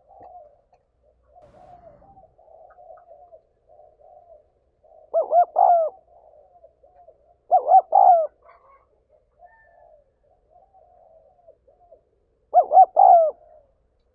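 Spotted dove cooing, giving its calling song: three loud phrases of two or three coos each, about five, seven and a half and twelve and a half seconds in, with soft low coos in between.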